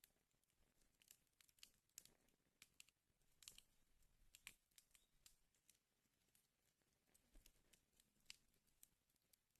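Faint wood fire in a fireplace crackling, with irregular sharp pops and snaps, several a second, over a soft hiss.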